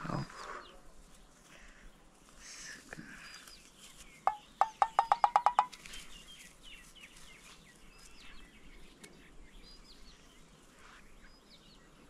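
A bird's call: a rapid run of about ten sharp notes, rising slightly in pitch, about four seconds in, over faint high chirps of small birds.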